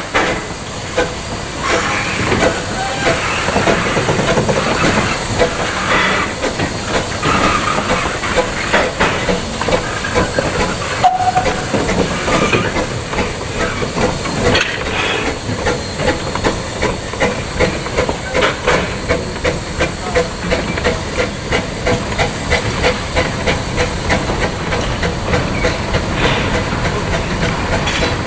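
Narrow-gauge 2-6-2T steam locomotive No. 8 running, with steady steam hiss and a continuous run of short beats.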